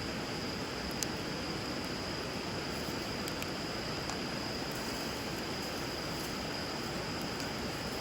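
Wood fire crackling over steadily flowing river water, with a few faint pops and one sharper pop about a second in; a steady thin high tone runs over it.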